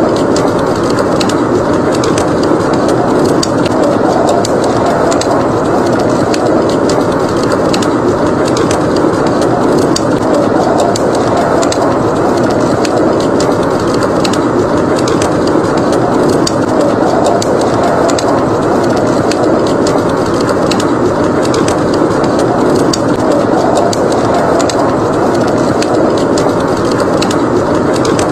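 Wood fire in a fireplace crackling, with frequent sharp pops, over the steady rushing wind of a blizzard.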